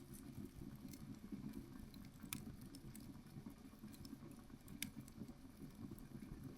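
Faint, irregular light pattering and small clicks over a soft low hum, with two sharper ticks, one about a third of the way in and one about two-thirds in.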